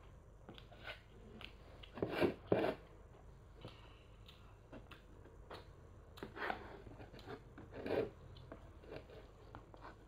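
Close-up eating sounds: a child chewing food, with small wet clicks and rustles and a few louder short bursts about two seconds in and again around six and eight seconds.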